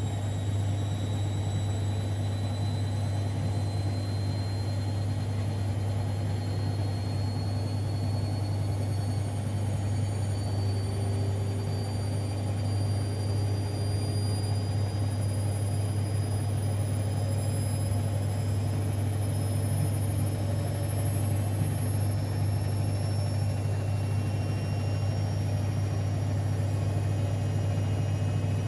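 Siemens Extraklasse XLs 140 A washing machine running with a steady low hum and a faint high motor whine that rises slowly throughout, as the drum speeds up in a spin.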